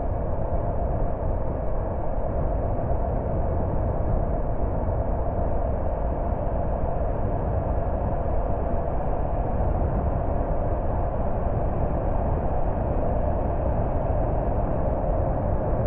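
Car driving along at a steady pace: an even, unbroken rumble of road and engine noise.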